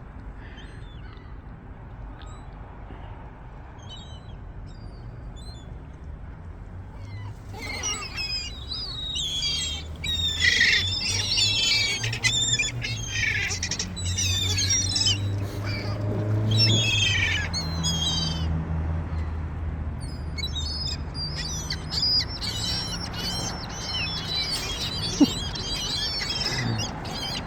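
Gulls calling and squawking, many overlapping calls that begin about a quarter of the way in and go on to the end, with a low steady hum under them in the middle.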